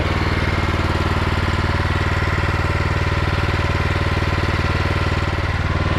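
Engine of a North Star hot-water steam pressure washer running steadily, its pump in open flow with the burner shut off, circulating water to cool the burner down.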